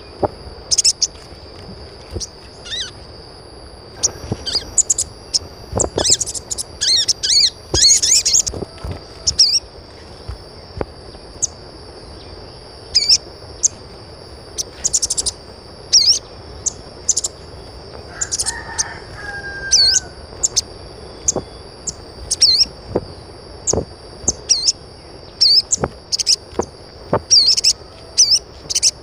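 Birds chirping: many short, high chirps scattered throughout, over a steady high-pitched whine.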